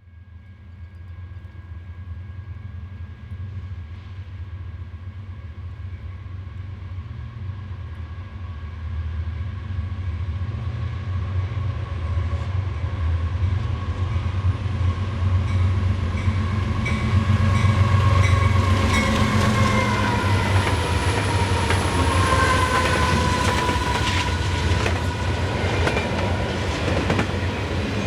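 A diesel-hauled train approaching and passing close by. The low engine rumble builds for the first half, and steady whining tones drop in pitch as it goes past. Near the end the wheels clack over rail joints.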